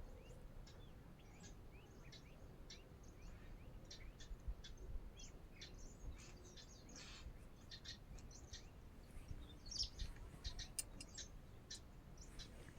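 Small birds chirping: many short, high chirps, scattered and sometimes overlapping, with a few louder ones near the middle.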